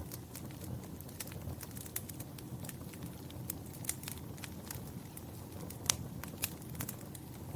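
Wood fire crackling in a fireplace: a steady low rumble of flame with frequent irregular sharp pops and snaps, the loudest one about six seconds in.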